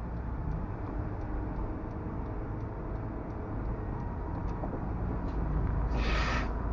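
Steady low rumble of a moving car's road and engine noise, with a short hiss about six seconds in.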